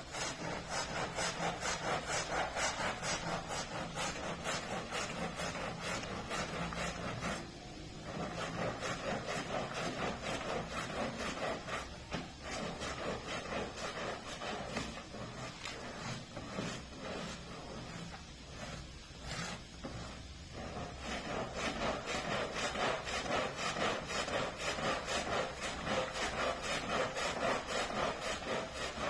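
Stiff brush scrubbing a carpet's pile in quick, even back-and-forth strokes, with a few short pauses.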